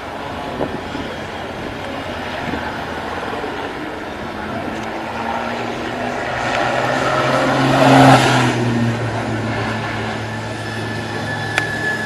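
A motor vehicle's engine approaching and passing, loudest about eight seconds in and then fading, over a steady background of outdoor noise.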